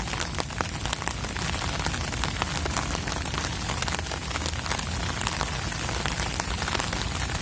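Rain falling steadily, with many close raindrop ticks, over a low rumble of wind buffeting the microphone.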